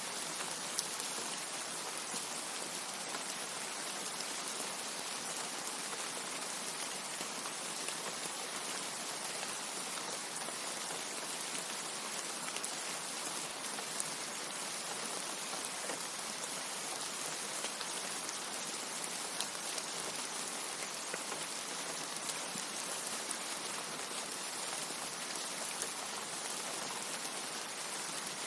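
Steady rainfall: a dense, even hiss of rain with scattered sharper drop impacts, and no thunder.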